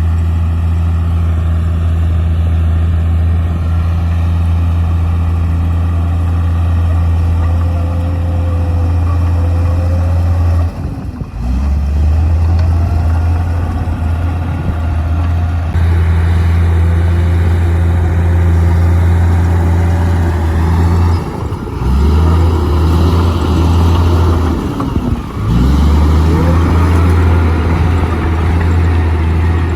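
Komatsu D58P bulldozer's diesel engine running steadily at working speed, its note dipping and shifting briefly three times, about a third of the way in and twice in the last third, with faint rising and falling whines above it.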